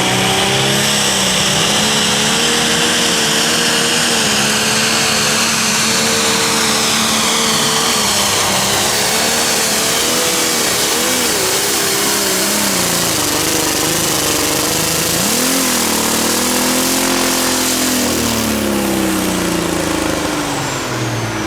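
Pulling vehicle's engine running flat out down the track, its pitch held high and wavering. About fifteen seconds in the pitch drops and climbs back up, then it falls away near the end as the throttle comes off.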